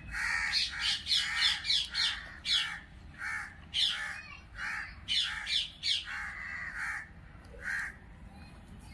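Birds calling in a quick, irregular series of short, harsh calls, about two a second, thinning out near the end.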